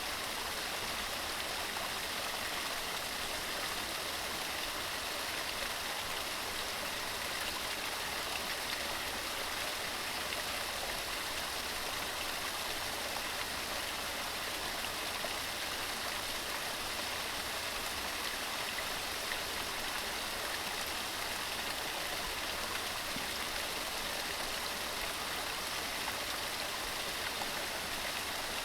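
Waterfall pouring over rocks: a steady, unbroken rush of falling and splashing water.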